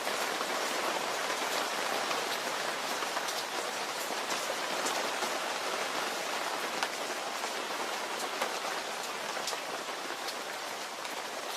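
Steady rain falling on a surface, with scattered sharper ticks of single drops.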